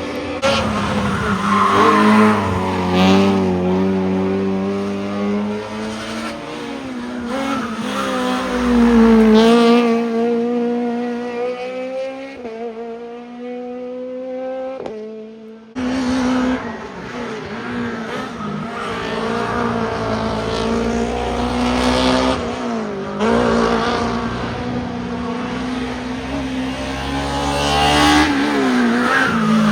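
Hillclimb race car engines at full throttle, the pitch climbing and dropping back again and again as they shift up through the gears. The first car fades away about halfway through, then another starts loud and sudden and climbs through its gears the same way.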